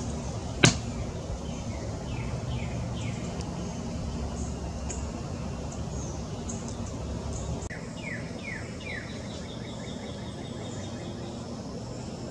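Wild birds singing: a run of quick falling notes about two seconds in and another just before the ninth second, with scattered faint high chips. A single sharp click just after the start is the loudest sound.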